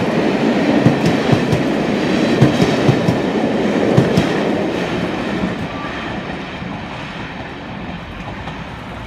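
Passenger coaches of a passing charter train rolling by close at hand, their wheels clicking over the rail joints. The sound fades away from about five seconds in as the last coach passes.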